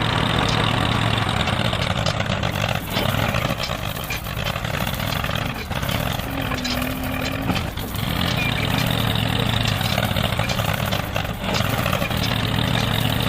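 Engine of a small homemade tractor running steadily, with a constant low hum under a dense mechanical rattle.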